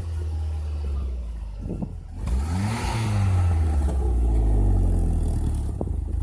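Chrysler PT Cruiser Turbo's 2.4-litre turbocharged four-cylinder engine being revved. The revs are dropping at first, then the engine is blipped up sharply a little over two seconds in and slowly falls back.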